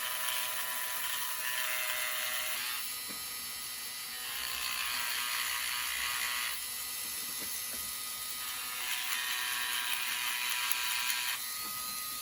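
Small rotary tool spinning a brass wire wheel with a steady high whine. The wire wheel is pressed three times against a model locomotive's wheel, each time for about two seconds, and scrapes out the old traction-tire groove with a hissing scrub.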